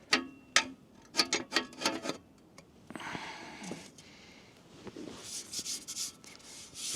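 Metal side plates of a portable fire pit knocking together as they are fitted: a run of sharp clinks, some ringing briefly, in the first two seconds, then a longer scraping rub as a plate is slid into place.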